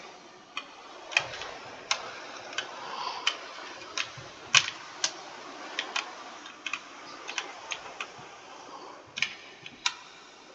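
Keystrokes on a computer keyboard: sharp, uneven clicks at about two a second, typed at an irregular pace, over a faint steady hiss.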